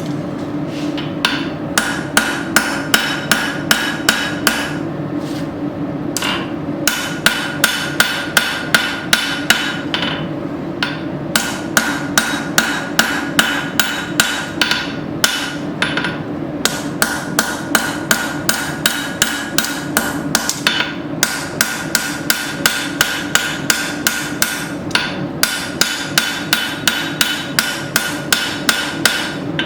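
Hand hammer striking hot file steel on an anvil, about three ringing blows a second in runs of several seconds with short pauses: a blacksmith drawing out the strike surface of a fire striker.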